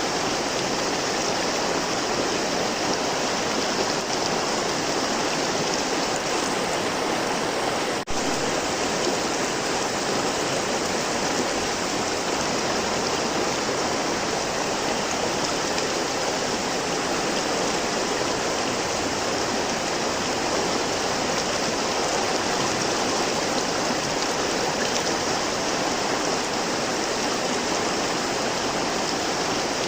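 River water flowing steadily, an even rushing of running water, with a momentary dip in level about eight seconds in.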